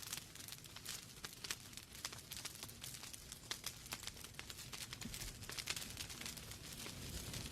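Wood fire burning in a fireplace: logs crackling with many quick, irregular pops and snaps over a soft hiss.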